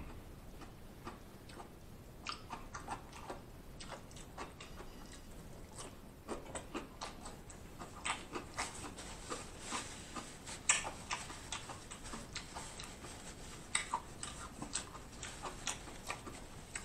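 A person chewing food close to the microphone, with irregular wet mouth clicks that grow busier from about six seconds in.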